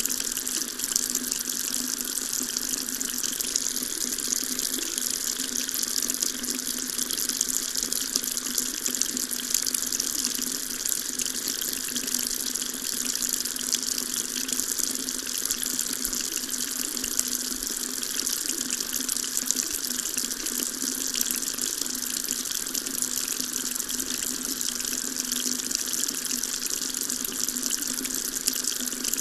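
Water tap running steadily, a continuous stream splashing into a sink with an even hiss.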